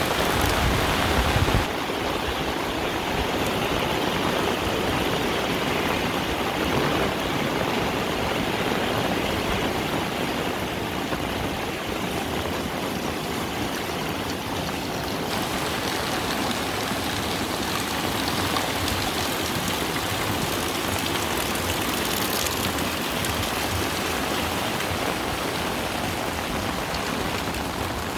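Heavy tropical rain pouring down steadily as an even hiss, with the sound of running water mixed in. About two seconds in, the deep low rumble drops away abruptly, and around the middle the high hiss grows brighter.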